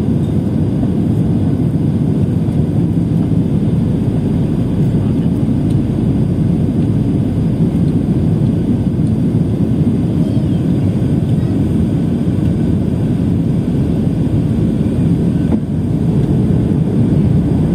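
Airliner's engines and airflow during the landing approach: a steady, low-pitched noise that does not rise or fall.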